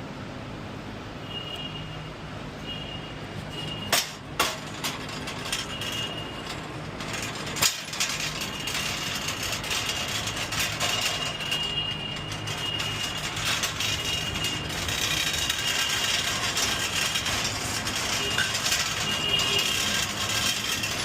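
Rattling and clattering while stoves are moved and loaded into a box truck, with a few sharp metal clanks about four to eight seconds in.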